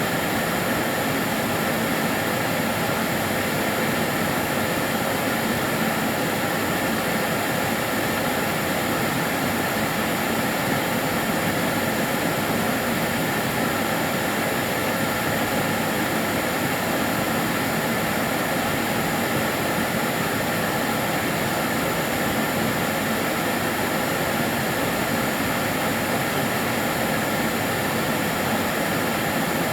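Kärcher DS 6 Premium water-filter vacuum cleaner running steadily: an even rushing motor and airflow noise with a faint high steady whine.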